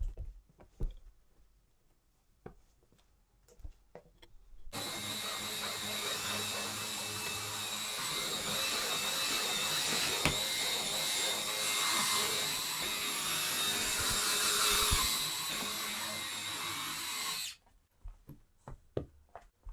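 A small electric motor appliance running steadily for about thirteen seconds, switched on about five seconds in and cut off suddenly near the end, with a thin whine over its noise. Light taps and knocks come before and after it.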